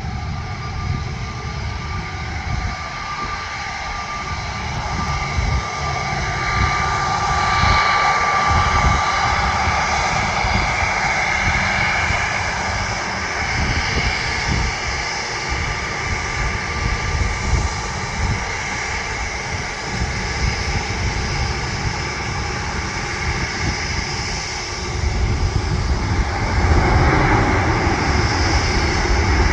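Jet airliner engines running, a steady whine over a rumbling roar, growing louder about six seconds in and again near the end.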